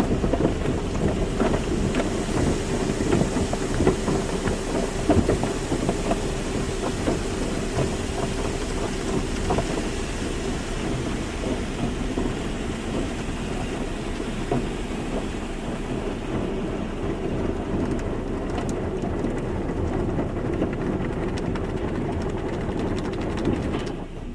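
Car wash running: a dense wash of water spray and rushing noise on the car, with scattered knocks and clicks and a steady machine hum that fades about halfway through. The level drops shortly before the end.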